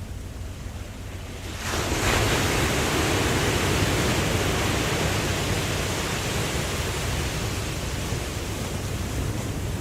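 Ocean surf over a low rumble; about two seconds in a wave breaks with a sudden loud rush of water, then washes and slowly fades.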